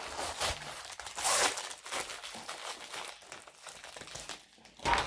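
Plastic diamond painting kit packaging crinkling as it is handled, with a louder rustle about a second in and another near the end.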